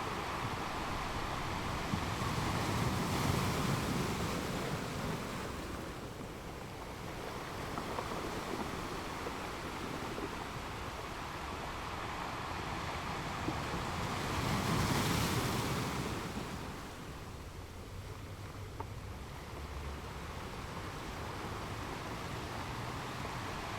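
Ocean waves washing on the shore, a steady wash of surf that swells twice as waves break, once a few seconds in and again about two-thirds through.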